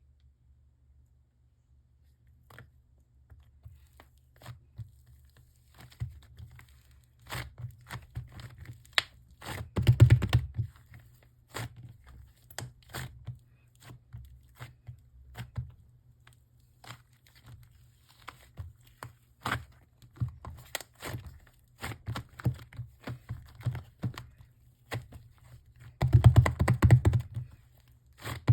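Hands handling clay: scattered sharp clicks and crinkly tearing and crumpling sounds, with two louder, denser bursts of handling, one about a third of the way in and one near the end.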